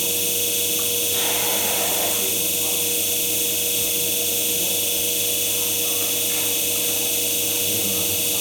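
MAKA 5-axis CNC machining centre running steadily: a constant machine hum with a strong steady tone and a high hiss, unchanging throughout.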